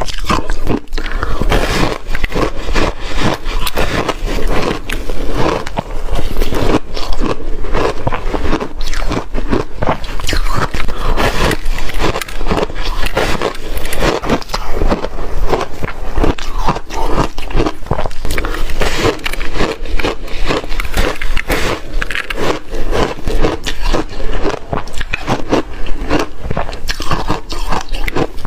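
Continuous loud crunching of refrigerator ice that has been reshaved, bitten and chewed close to the microphone, with dense crackling and scraping.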